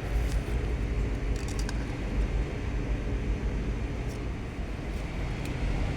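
A diesel engine running steadily at idle, with a few light metallic clicks of hand tools on metal.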